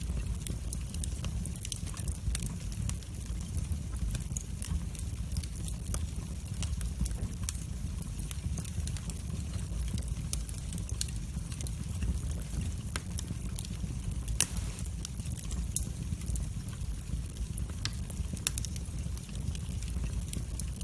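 Wood fire burning in a fireplace: a steady low rumble of flames with frequent irregular crackles and pops, one pop louder than the rest about two-thirds of the way through.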